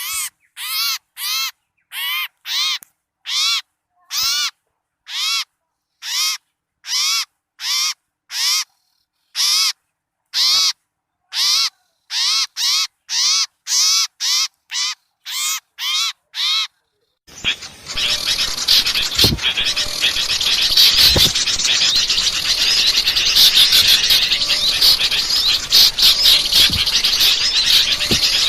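Bird-lure recording of small birds: one harsh, scratchy bird call is repeated about two dozen times, a little over once a second, with silence between. About two-thirds of the way through it gives way to a dense, continuous chatter of many small birds calling at once.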